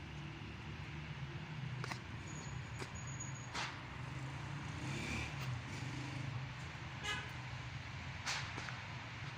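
City traffic running steadily, with a brief car horn toot about five seconds in and a few sharp clicks.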